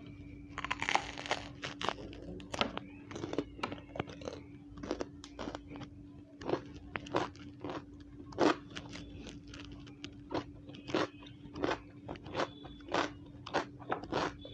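Biting into a raw bitter gourd about a second in, then crisp chewing crunches, about two a second, as it is chewed.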